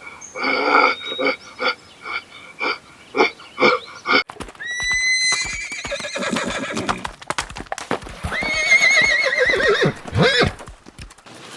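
Horse hooves clopping at a steady pace, about three strikes a second, then a horse whinnies twice: a high call rising and holding near the middle, and a longer, wavering whinny that falls away near the end.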